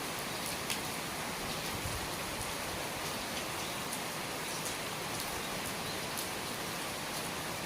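Rain falling and dripping from house eaves: a steady patter with scattered sharper drips, one louder drip near the start.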